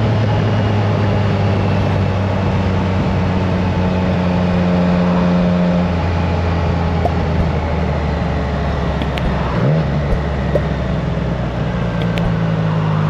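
Triumph Trident 660's inline three-cylinder engine running through a FireTong aftermarket exhaust while the bike is ridden at steady speed. Its note changes about halfway through, with a brief rise in pitch a little later.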